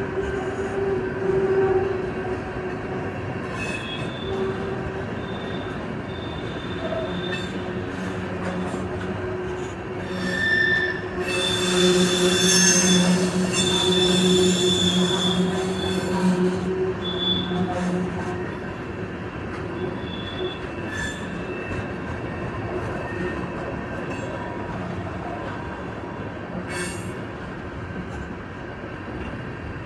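Long Union Pacific tank train rolling past, steel wheels squealing on the rails with intermittent high-pitched screeches over a steady rumble. It is loudest about halfway through.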